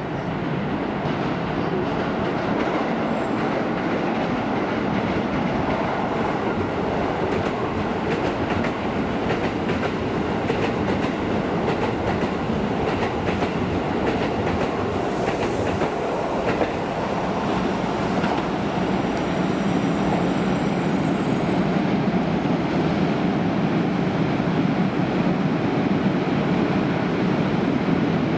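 Keisei Main Line electric train running through the station, its wheels clattering steadily over the rail joints. A brief high hiss comes about halfway through.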